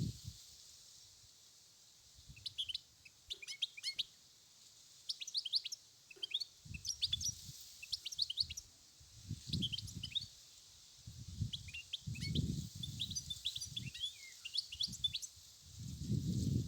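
European goldfinch singing a rapid, twittering song of quick high notes over a steady hiss. A low rumble comes and goes several times underneath.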